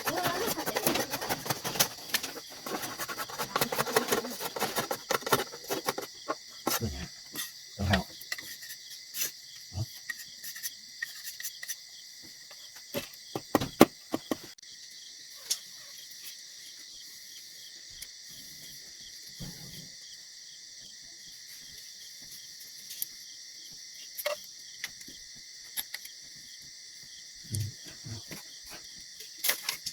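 Crickets and other insects chirring in a steady, high, even drone. Busy rustling and clicking run through the first few seconds, and scattered single knocks follow.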